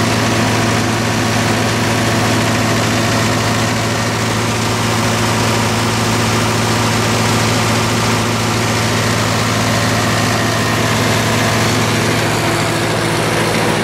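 MEP-004 military diesel generator running steadily under electrical load, with an air compressor, a blower, a hot plate and two drink machines plugged into it.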